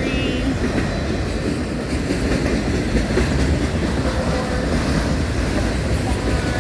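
Loaded autorack freight cars rolling past at close range: a steady rumble of wheels on rail.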